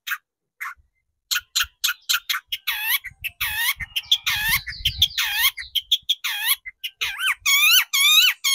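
Long-tailed shrike (cendet) calling with a run of harsh, rasping notes that bend in pitch. The calls start after a short pause about a second in, lengthen a few seconds in, and come quicker, about two a second, near the end.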